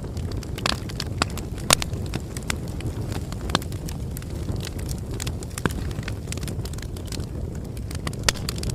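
Campfire crackling: irregular sharp pops and snaps, a few louder ones, over a steady low rumble of burning wood.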